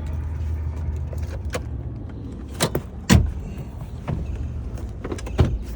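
A few sharp clicks and one heavier thunk about three seconds in, from the Escalade's door and power running boards being worked, over a steady low hum.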